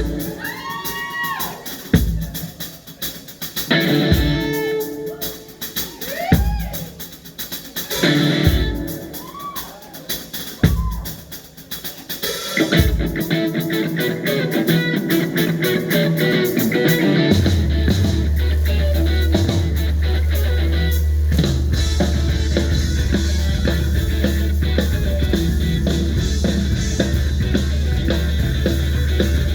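Live rock band playing: separate drum-and-guitar hits about every two seconds, then the full band comes in and plays on steadily with heavy bass from a little past halfway.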